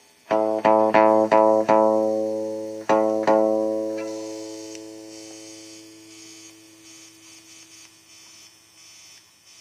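Electric guitar played through a ZT Lunchbox Jr amplifier: the same chord struck about seven times in the first three or so seconds, then left to ring out and fade. A faint hum and hiss from the amp remain after the chord dies away.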